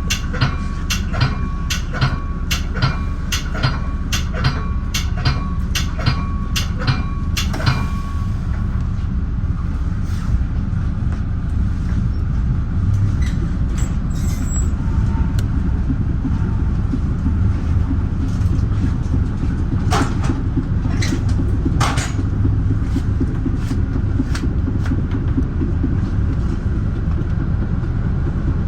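Bi-level commuter train rolling, with a steady low rumble of the car on the rails. For the first eight seconds a bell rings about twice a second, then stops suddenly; a few sharp clicks follow later.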